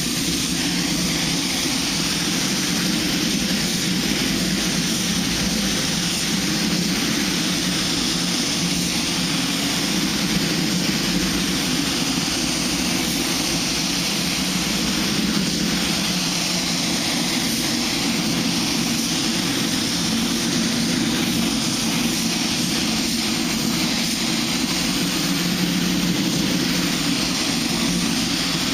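Compressed-air paint spray gun hissing steadily as acrylic primer is sprayed, starting suddenly, with a steady lower hum under the hiss.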